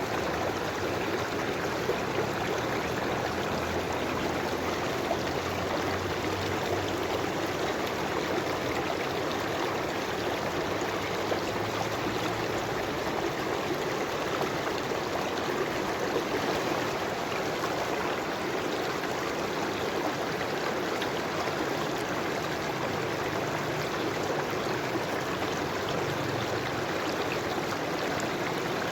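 River water flowing and gurgling over rocks, a steady unbroken rush.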